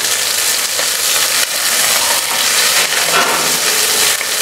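Chopped shallots, curry leaves and crushed garlic sizzling steadily in hot oil in a clay pot while being stirred with a wooden spatula, the shallots sautéing until soft.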